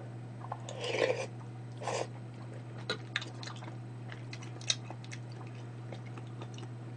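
A person eating: a spoonful taken into the mouth and chewed, with two short louder mouth noises about a second and two seconds in, then scattered small clicks of chewing. A steady low hum runs underneath.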